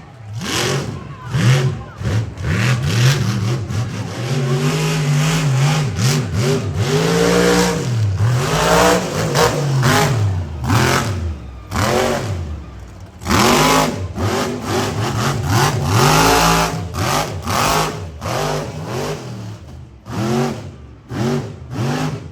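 Monster truck engine revving hard, its pitch climbing and dropping again and again, loudest in two full-throttle bursts a little past the middle.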